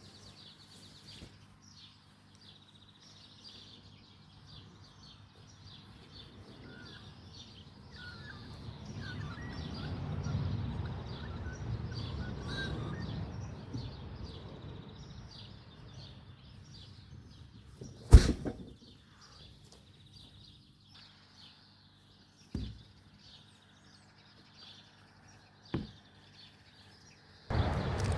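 Many birds chirping and calling in the open, with a low rumble that swells and fades in the middle. About two-thirds of the way through comes one sharp loud knock, followed later by two fainter knocks.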